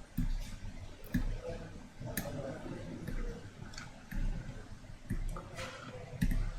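Scattered light clicks and taps of small hand tools being handled at a repair bench, about half a dozen, over low bumping noise.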